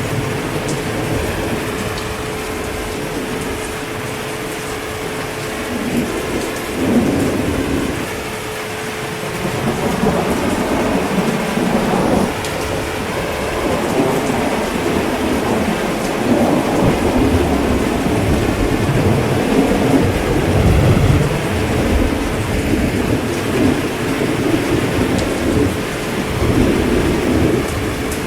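Steady heavy rain with thunder rumbling low in slow swells that come and go, heaviest in the second half.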